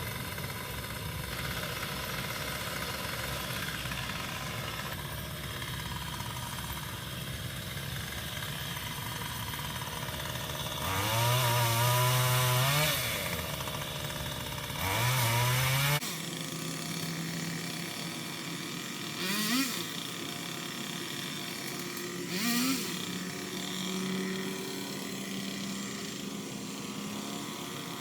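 A motor running steadily, with two louder revving spells of a couple of seconds each, rising and falling in pitch, typical of a chainsaw-type cutter. About sixteen seconds in the low motor hum cuts off suddenly, leaving fainter mechanical sounds with a couple of short rising whines.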